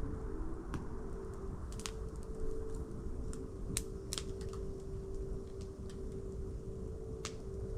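Wood fire crackling: sharp, irregular pops and snaps over a steady low rumble and a faint steady hum.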